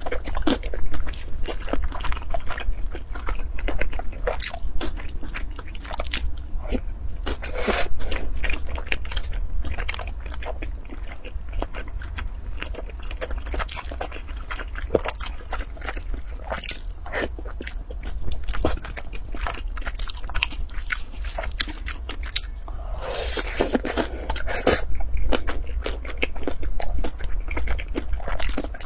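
Close-up mouth sounds of a person chewing food, with many short, crisp crunches that are densest over the first eight seconds and sparser after. About 23 seconds in there is a louder stretch of noise lasting roughly two seconds.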